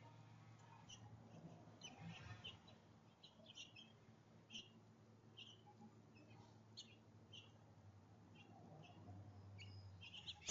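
Small songbirds giving faint, short, high chirps at irregular intervals, about one or two a second, over a steady low hum.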